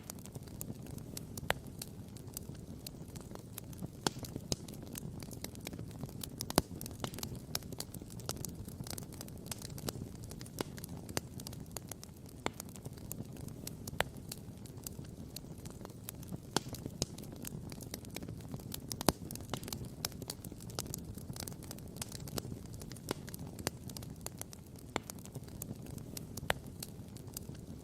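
Wood campfire crackling and popping, with irregular sharp pops of varying strength over a steady low rumble.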